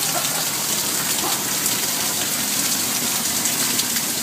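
Heavy rain pouring down, a steady dense hiss with scattered drops ticking.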